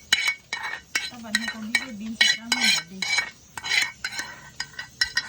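A spoon stirring and mixing food in a bowl, clinking against the bowl in a quick, uneven run of ringing strikes, two or three a second.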